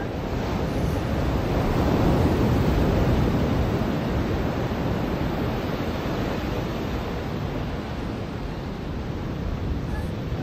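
Ocean surf breaking and washing onto a beach: a steady rush of waves that swells about two seconds in and slowly eases off.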